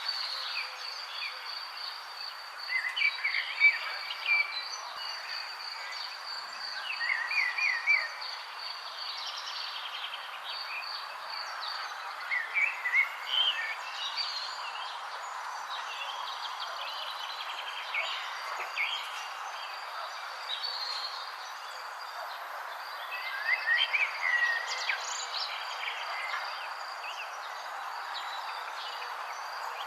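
Songbirds chirping in short bursts of quick notes, a few seconds apart, over a steady high trill and an even background hiss.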